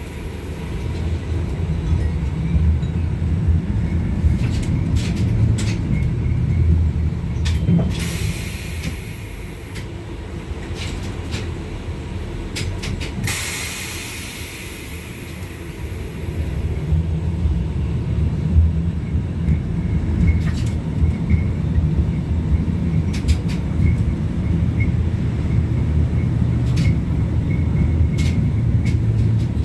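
LVS-86K articulated tram running between stops, heard from inside the passenger cabin: a steady low rumble of wheels and running gear, with scattered clicks and knocks from the track. Two brief hisses come through about a third and halfway in, and the rumble eases in the middle before building again.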